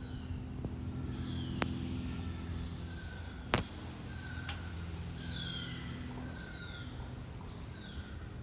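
Songbirds calling: short, high, downward-slurred notes repeated several times, mostly in the second half, with some shorter, lower notes between them. Underneath runs a steady low hum, and a sharp click about three and a half seconds in is the loudest sound.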